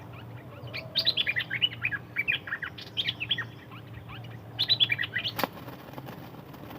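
A small songbird chirping in three bursts of rapid, high twittering notes. A single sharp click comes about five and a half seconds in, over a faint steady low hum.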